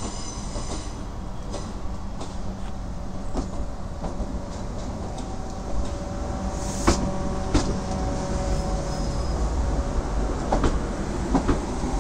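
Train running on the rails: a steady low rumble with sharp clacks from the wheels at irregular intervals, and a faint steady whine for a few seconds in the middle.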